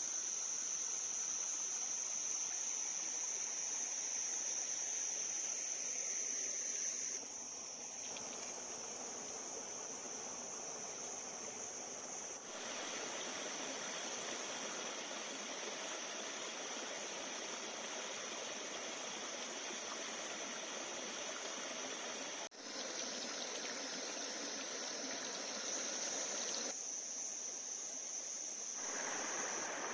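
Steady high-pitched insect chorus over the even rush of flowing stream water. The insect tone fades and returns, and the mix changes abruptly several times where recordings are cut together.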